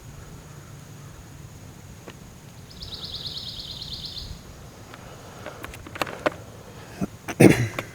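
Woodland sounds: a rapid, high trill lasting about a second and a half a few seconds in, a few sharp clicks around six seconds, and a louder short harsh sound near the end.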